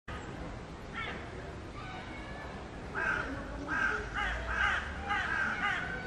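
Bird calls: a single call about a second in, then a quick run of repeated, arching calls from about three seconds in.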